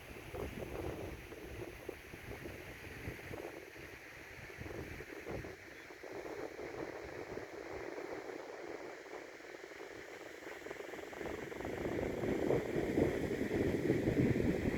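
Wind buffeting the microphone outdoors in irregular gusts, with a steady rushing hiss behind it; the gusts grow louder over the last few seconds.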